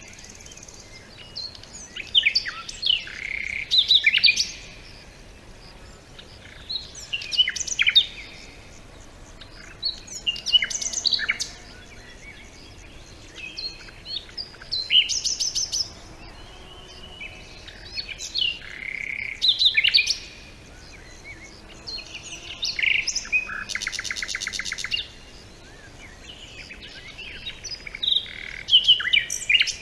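Songbirds singing in short, varied warbling phrases every few seconds. About three-quarters of the way through comes a rapid, even trill.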